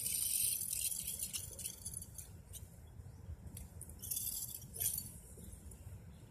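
Light rattling and clicking with a jingling, metallic edge, in two spells: in the first second or so and again about four seconds in, with a few sharp single clicks between.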